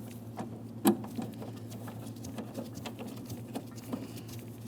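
Hand ratchet clicking in quick, irregular strokes as a 13mm door-hinge mounting bolt is run down lightly, with a louder metallic knock about a second in.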